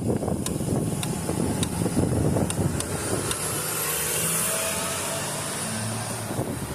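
Wind gusting against the microphone, then a road vehicle passing by, its tyre and engine noise swelling to a peak a little past the middle and fading away.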